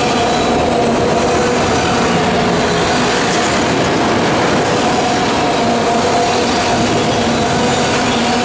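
Freight train cars rolling steadily past, a continuous loud rumble and rattle of wheels on rail with a few steady tones running underneath.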